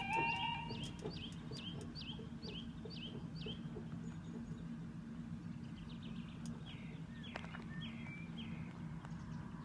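Small birds chirping: a run of short, quick chirps, then a second, looser run a few seconds later, over a steady low hum. An alternating two-tone sound cuts off about a second in.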